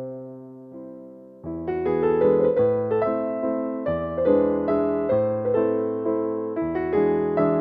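Solo piano music: a soft chord dying away, then, about a second and a half in, a fuller passage of many notes played in quick succession.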